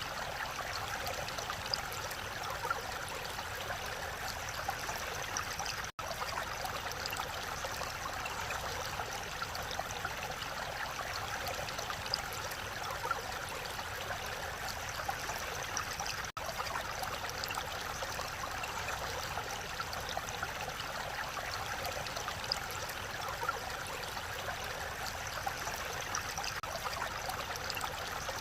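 Mountain valley stream flowing steadily, an even rush of water, cut off for an instant twice, about six and sixteen seconds in.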